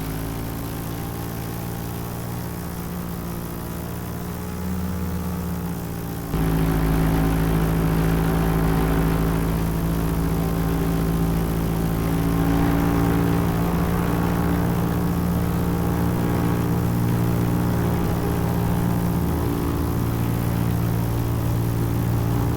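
Paramotor engine and propeller running steadily in flight, a droning hum. About six seconds in it gets suddenly louder and fuller, then holds steady.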